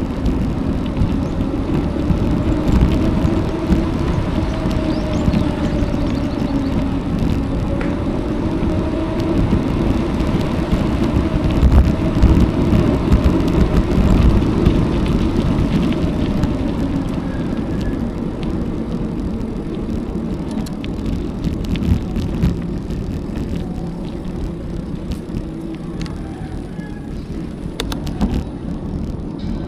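Wind rumble on the action camera's microphone and tyre noise from a bicycle riding a country road, with a motor vehicle's engine running close by in the first half and fading out after about fifteen seconds.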